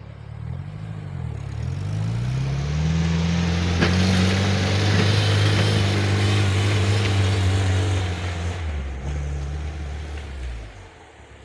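Homemade mini tractor's engine revving up, running hard and steady for several seconds, then dropping back to a lower speed about eight seconds in.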